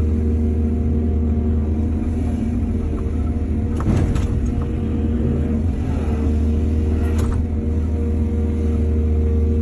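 Heavy diesel excavator engine running at a steady pitch, with two sharp knocks about four and seven seconds in.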